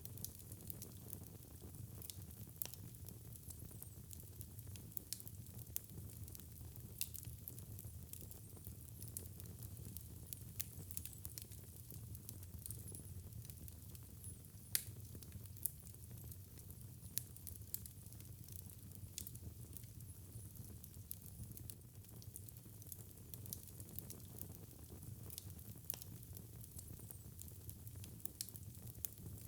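Wood fire crackling in a fireplace: frequent sharp pops and snaps, irregularly spaced, over a steady low rumble of the flames, with one louder pop about halfway through.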